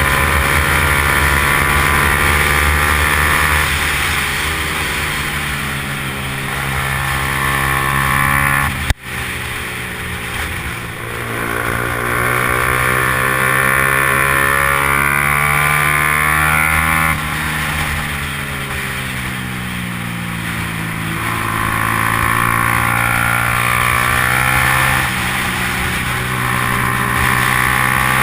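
Yamaha R15's 150 cc single-cylinder engine running hard at racing speed, its pitch falling and climbing again several times with throttle and gear changes. A sharp click with a brief dip in the sound about nine seconds in.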